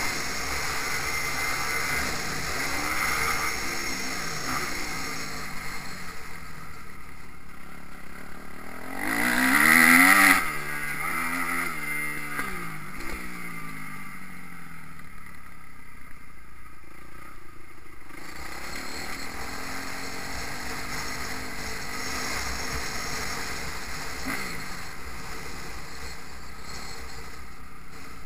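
Motocross bike engines running and revving. One bike passes close about nine to ten seconds in, the loudest moment, its pitch falling as it moves away. Wind noise on the microphone throughout.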